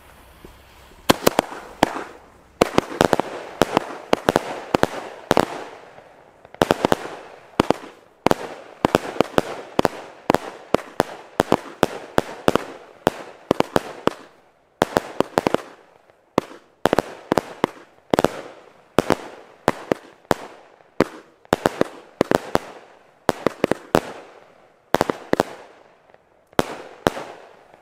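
A consumer firework battery firing: a rapid, irregular series of sharp bangs as shots launch and burst overhead. It starts about a second in and keeps going, sometimes several bangs in quick succession, until just before the end.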